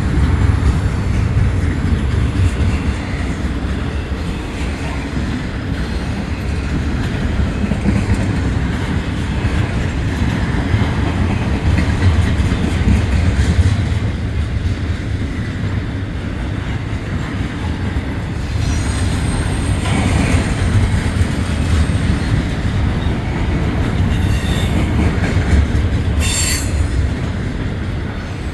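Freight train rolling past close by, a steady heavy rumble of rail cars on the track, with short high-pitched wheel squeals in the second half.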